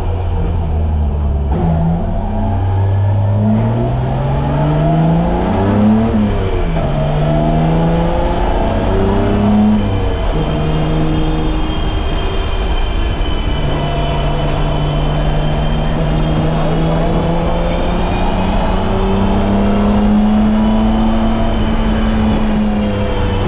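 BMW E30's M20B25 2.5-litre inline-six running under load and revving up through the gears. Its pitch climbs and drops at upshifts about six seconds in and again around ten seconds in, holds steadier for several seconds, then rises once more before easing off near the end.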